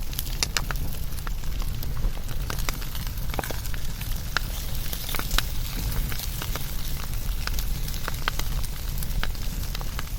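Wood fire burning, with irregular sharp crackles and pops over a steady low rumble and hiss.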